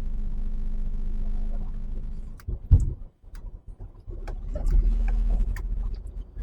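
HGV diesel engine running steadily. A single loud thump comes about two and a half seconds in, the sound drops away briefly, then the engine hum returns with a few light clicks.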